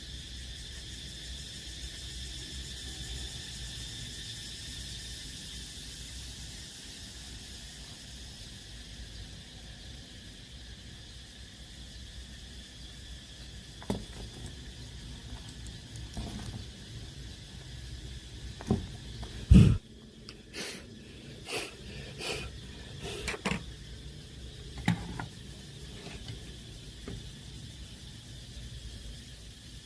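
A scatter of short clicks and knocks over a steady faint hiss, the loudest knock about two-thirds of the way through, as of small parts and tools being handled on a workbench.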